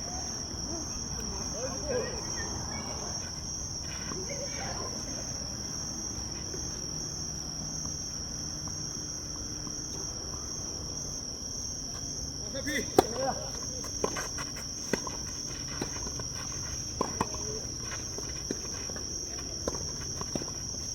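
A steady, high-pitched insect chorus that holds one pitch throughout. From a little past halfway, a run of sharp knocks comes about a second apart, the loudest near its start.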